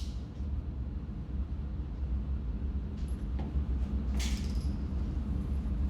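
Steady low background rumble with a few faint clicks about three and four seconds in; no shot is fired.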